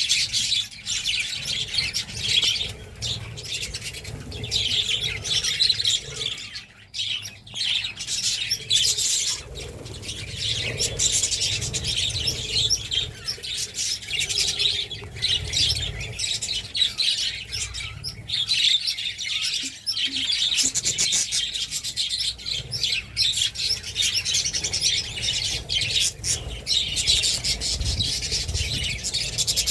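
A group of budgerigars chirping and chattering continuously.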